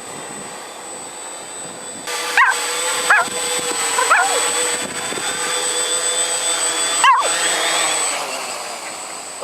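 XAIRCRAFT X650 multirotor's electric motors and propellers whining steadily, louder from about two seconds in, while a dog barks several times.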